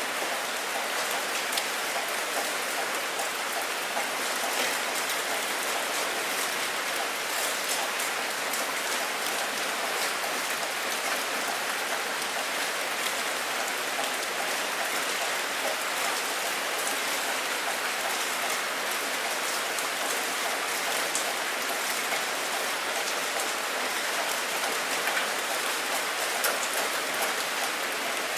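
Steady rain falling, an even hiss dotted with many fine drop ticks.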